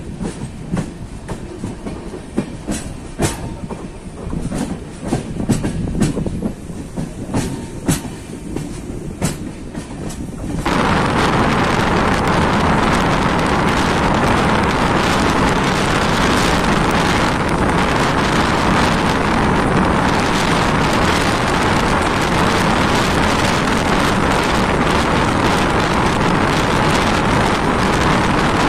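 Passenger express train running at speed, heard from an open coach door: sharp clicks of the wheels over rail joints over a steady track rumble, then, about ten seconds in, a sudden change to a much louder, even rush of wind and rolling noise.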